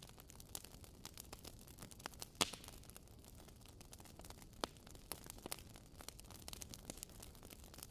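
Wood fire crackling in a fireplace: faint, irregular pops and snaps over a low hiss, with one louder pop about two and a half seconds in.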